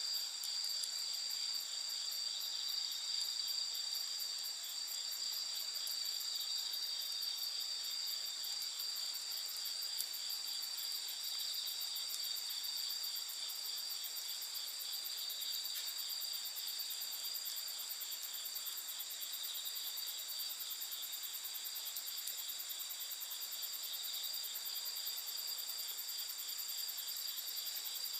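Night insects, crickets among them, chirring steadily in a chorus of several pitches: a steady trill and a very high, fast-pulsing buzz. One faint click comes about ten seconds in.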